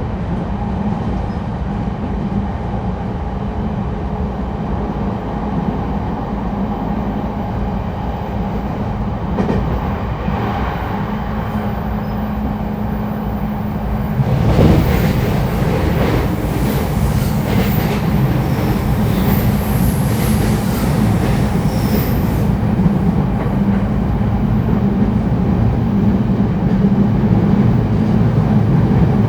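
Interior running sound of an E231 series 1000 commuter electric train cruising between stations: a steady rumble of wheels on rail with a constant low hum. About halfway through it grows louder for about eight seconds, with hissing and high wheel squeals, then settles back to the steady run.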